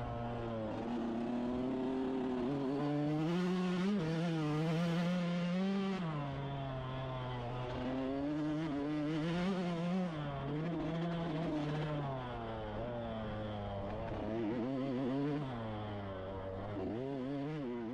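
An engine running with its pitch rising and falling again and again as it is revved up and eased off.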